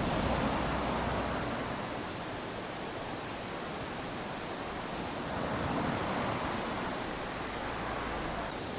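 Small waves lapping onto a sandy shore: a steady wash of surf that swells twice, at the start and again about six seconds in.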